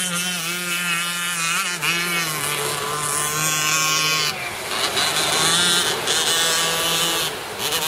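A 26cc Zenoah two-stroke gasoline engine with tuned exhaust, driving an RC gas boat, running at high revs. Its pitch wavers and shifts, and the sound changes about four seconds in.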